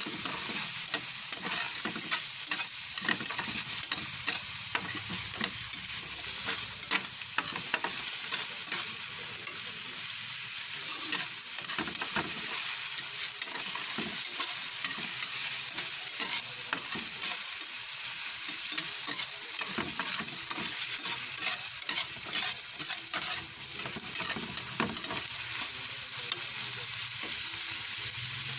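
Ground pork and red bell pepper sizzling in hot oil in a pan, stirred with a spatula that scrapes and ticks against the pan over a steady hiss.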